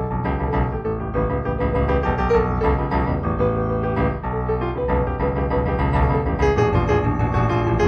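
Improvised solo piano music playing over the soundtrack, with many notes struck and held in overlapping chords.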